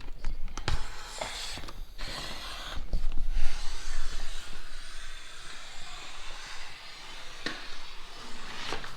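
Vinyl wrap film rustling and rubbing as it is trimmed out around a truck's wheel opening, with a few short clicks.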